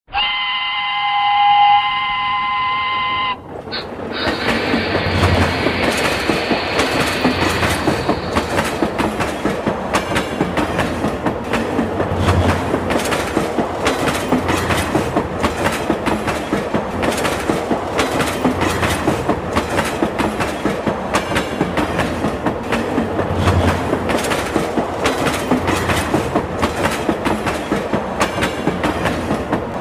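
Train sound effect: a train whistle sounds as a steady chord for about three seconds. It is followed by a running train, its wheels clacking over the rail joints in a steady rhythm.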